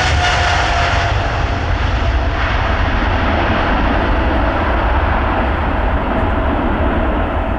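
Jet airliner's engines passing close by: a loud, steady rush with an engine whine that falls in pitch during the first second and then holds, the high hiss slowly fading as the aircraft moves away.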